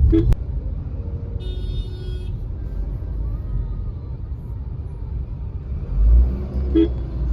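Steady low rumble of a car driving on the road. A brief high-pitched tone comes about one and a half seconds in, and the rumble swells louder around six seconds in.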